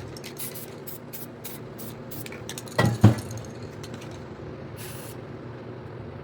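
Aerosol spray-paint can fired in quick short bursts, a rapid series of hisses, then two loud knocks about three seconds in and one more short spray burst near the end.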